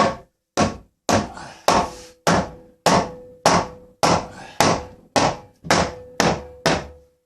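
About a dozen steady hammer blows on wood, roughly two a second, with a ringing note sounding under the later blows.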